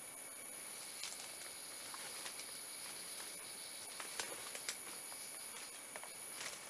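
Forest insects keeping up a steady high-pitched drone, with a fainter, lower steady tone beneath it. Scattered light clicks and taps come and go over it, a few a second at most.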